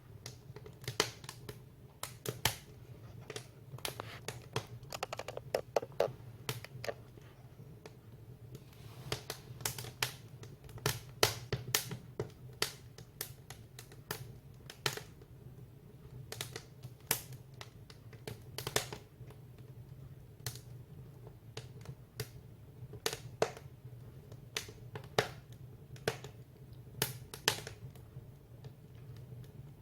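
Firewood burning in a wood stove, crackling with irregular sharp pops, sometimes several in quick succession.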